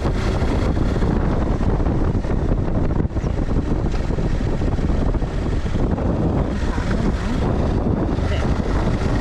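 Wind buffeting a moving GoPro's microphone: a loud, steady low noise that covers everything else.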